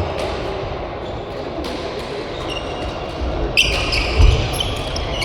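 Badminton play in a sports hall: steady hall rumble, then about three and a half seconds in a sharp hit followed by shoe squeaks on the court floor and a heavy footfall thump.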